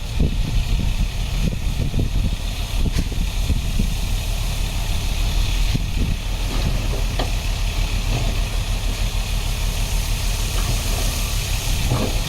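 Diesel engine of heavy earthmoving equipment running steadily, with a deep rumble and a few brief knocks.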